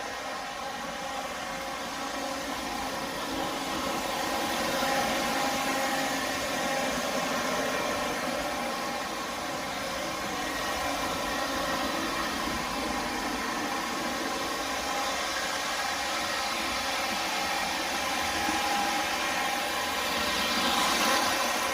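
O-scale MTH Premier diesel locomotives running flat out: the locomotives' diesel engine sounds mixed with the whir of wheels and motors on three-rail track. The sound swells as a train passes close about five seconds in, and again near the end.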